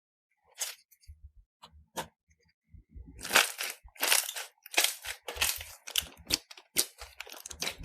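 Slime being squeezed and pressed by hand, making a run of crackling, crunching sounds. They start sparse and grow dense and louder from about three seconds in.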